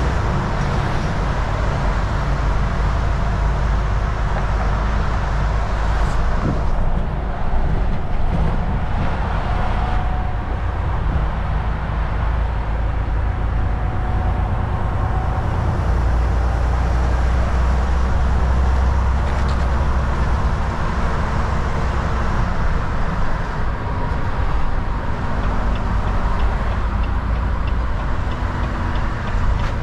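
Volvo VNL 760 semi truck driving along the highway: a steady engine drone with a heavy low rumble and road noise, the rumble swelling a little for a few seconds past the middle.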